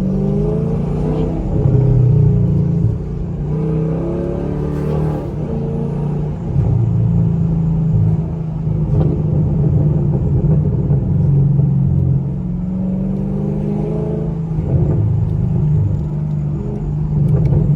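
Straight-piped 2017 Camaro SS's 6.2-litre V8 exhaust, heard from inside the car with the window down. It rises in pitch several times as the car accelerates, between stretches of steady cruising.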